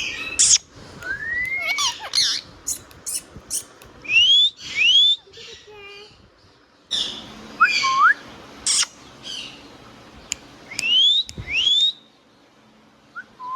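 Indian ringneck parrot calling: repeated rising whistles, often in quick pairs, mixed with short, sharp, high screeches.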